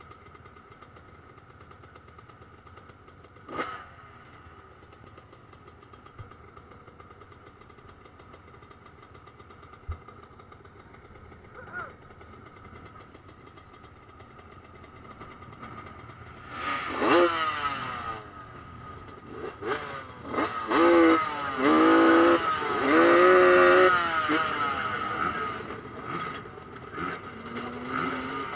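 Motocross motorcycles racing: distant bikes heard faintly at first, then, a little past halfway, several bikes come close, their engines revving up and down through the gears.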